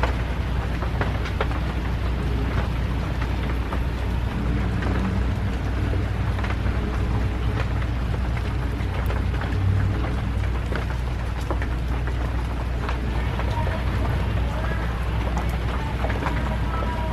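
Steady rain falling, with many scattered drops ticking on a surface over a steady low rumble.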